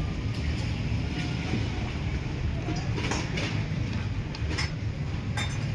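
Steady low rumble, like a vehicle running, with a few sharp clicks and knocks about halfway through and again near the end.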